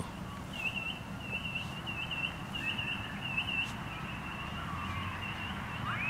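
A bird singing a run of short, high whistled notes repeated about three times a second for roughly three seconds, then a single rising note near the end.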